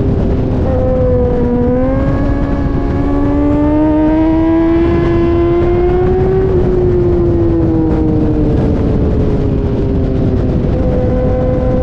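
Suzuki GSX-R1000R superbike engine on track, pulling hard: the pitch dips briefly about a second and a half in, climbs steadily for about five seconds as the bike accelerates, falls back as it eases off, then holds and rises slightly near the end, over a steady low rumble.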